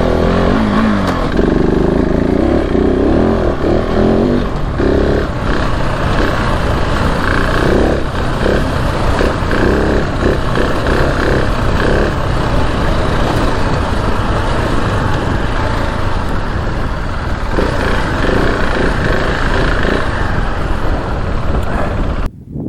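KTM 690 Enduro R's single-cylinder engine running on a trail ride, the revs rising and falling over the first few seconds and then uneven on and off the throttle. The sound drops away abruptly near the end.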